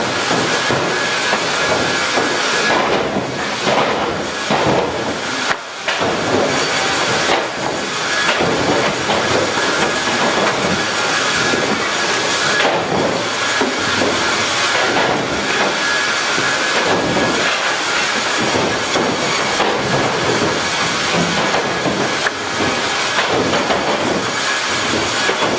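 Sawmill machinery running with a continuous loud, noisy rumble and rattle, a faint steady whine above it, briefly dropping about six seconds in.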